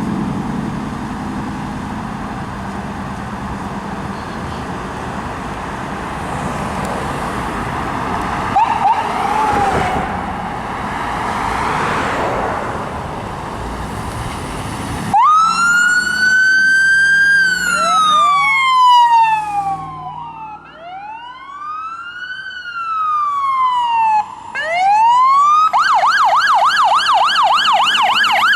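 Traffic and engine rumble, then about halfway through a responding fire engine or ambulance's electronic siren starts up close: a slow wail rising and falling, switching to a fast yelp near the end.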